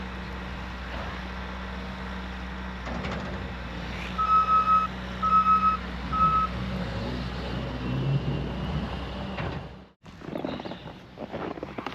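A work vehicle's engine running steadily, with its reverse-warning alarm sounding three short runs of beeps while it backs up. The engine sound cuts off abruptly near the end.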